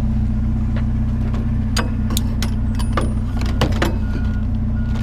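A vehicle engine idling steadily. Over it, about two seconds in, comes a quick series of sharp knocks and clatters as items, a pair of canes, are handled and set back down.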